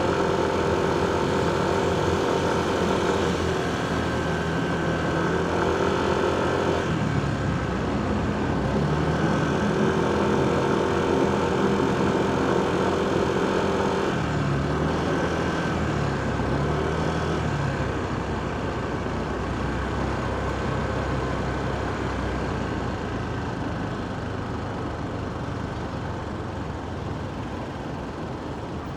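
Motorcycle engine running in heavy city traffic, its pitch shifting several times as speed changes, over a constant din of surrounding vehicles.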